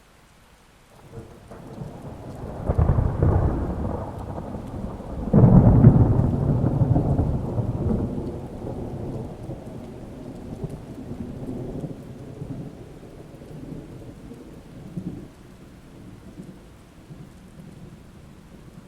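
A thunderclap rolls in: the rumble builds about a second in, breaks into a louder, sharper crack around five seconds in, then rolls away slowly. Rain falls steadily underneath.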